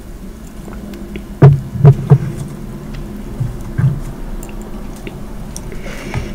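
Close-miked chewing and biting of food, with three loud low thuds close together about a second and a half in and softer ones later, over a light steady hum.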